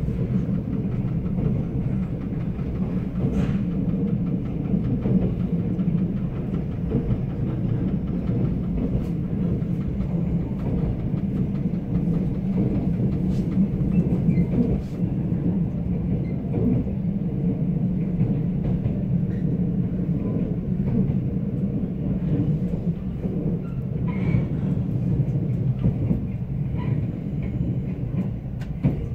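Steady running rumble of a moving Mugunghwa passenger train, heard from on board, with a few faint clicks from the wheels on the track.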